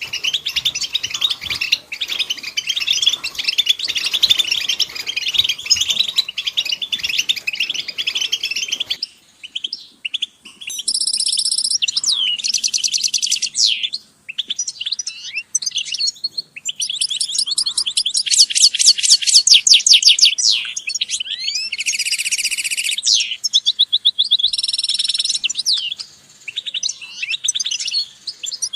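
A group of European goldfinches calling and twittering: a dense chorus of many birds for the first nine seconds, then, after an abrupt change, fewer birds closer in with fast trills and several short buzzy notes.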